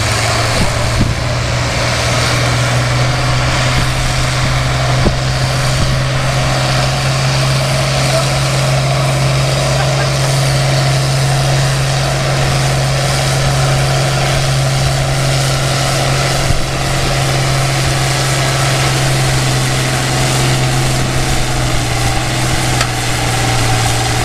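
Farm tractor engine working under load, pulling a weight-transfer sled down the track, held at steady, unchanging revs throughout.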